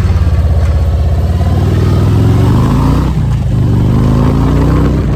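Harley-Davidson Road Glide Ultra's V-twin engine, loud and steady, then accelerating: the pitch rises, breaks off about three seconds in at an upshift, and rises again.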